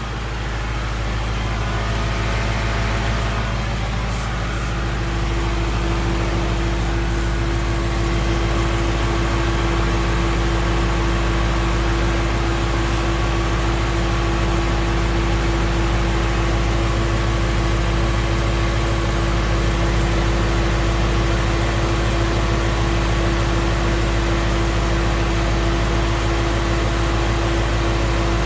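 2016 Ford Mustang's 5.0 Coyote V8 idling steadily while warming up after a cold start, with a steady whine coming in about four seconds in. The owner hears it as a smooth, normal-running engine without the Coyote 'barbecue igniter' tick.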